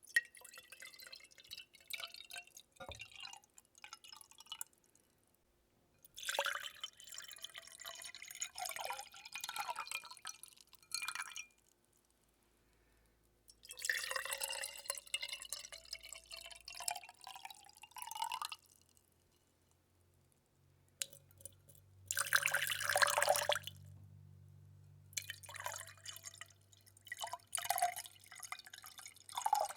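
Close-miked water being splashed and dripped in about five spells of a few seconds each, separated by short pauses. Each spell has little rising, pitched gurgles.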